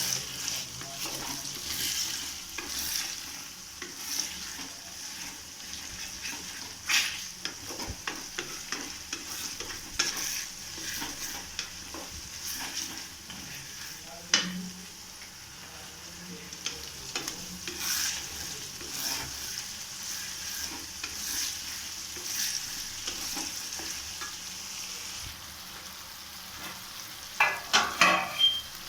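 Curry frying and sizzling in a pan while it is stirred, with the utensil scraping and clicking against the pan. Near the end comes a quick run of louder knocks of the utensil on the pan.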